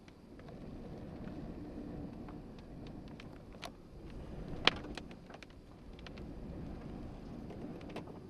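Low wind rumble with scattered sharp ticks and taps, and one louder click about halfway through.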